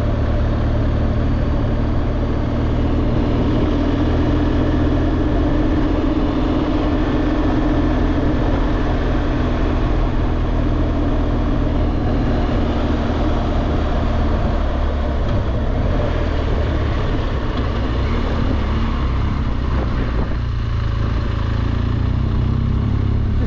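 BMW R1200GS Adventure's boxer twin engine running steadily under way, mixed with constant road and wind noise.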